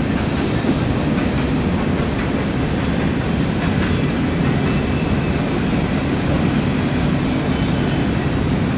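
Steady low rumble of a train running on rails, with a few faint high ticks.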